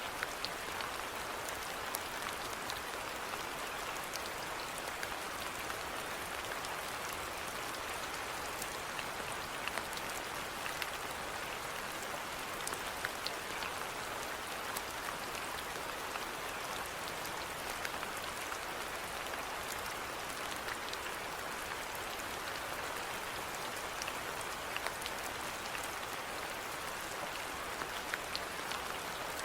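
Steady rainfall with many individual drops ticking sharply against a surface over an even hiss.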